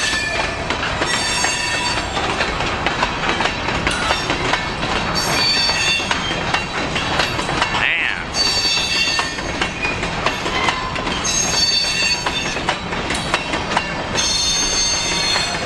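Covered hopper cars of a long freight train rolling past: a steady clatter of wheels over the rails, broken every few seconds by spells of high-pitched wheel squeal.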